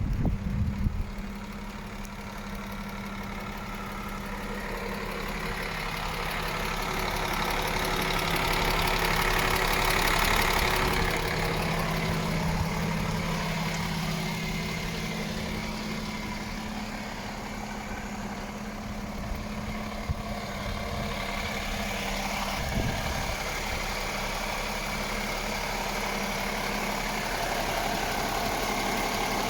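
Diesel engine of a 2018 MAN TGX 18.460 truck, a 12.4-litre straight-six, idling steadily. It drops back to idle about a second in, and swells somewhat louder and back down around the middle.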